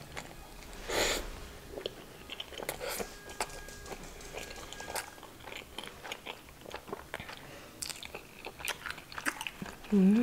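Close-miked chewing of garlic naan dipped in chickpea curry (chana masala): soft wet mouth sounds and small smacks, with a louder noisy burst about a second in. A short hummed vocal sound comes right at the end.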